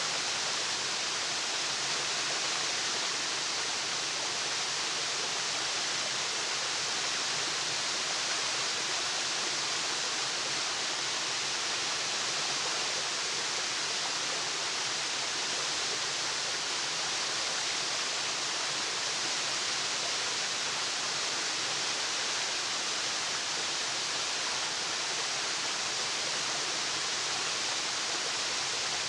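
Waterfall: falling water rushing in a steady, even hiss, with no change in level.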